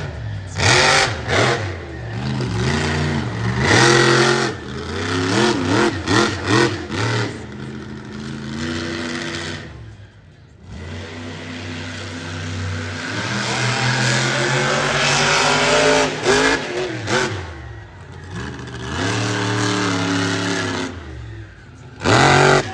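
Monster truck engine revving hard and repeatedly, its pitch climbing and dropping as the throttle is worked. Several loud sudden blasts are heard, and the engine drops away briefly about ten seconds in.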